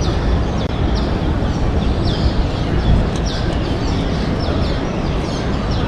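Bird chirping: short, high notes that fall in pitch, repeated about twice a second, over a steady low rumble of wind.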